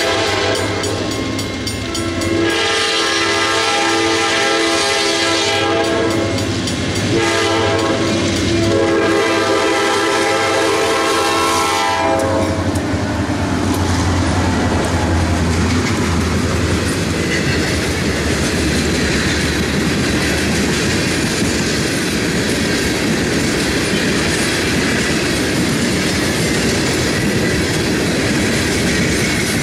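Locomotive horn blown in three long blasts over the first twelve seconds or so, then a train passing close, its engine rumbling and its wheels clattering over the rails.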